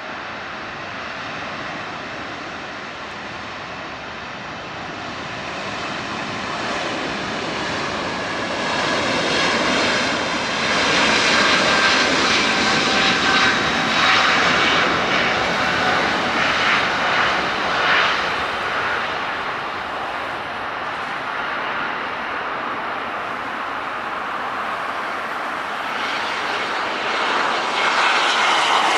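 Boeing 777-300ER's GE90-115B turbofans running at high thrust: a continuous loud jet roar with a faint steady whine that swells, peaks, eases off, and swells again near the end.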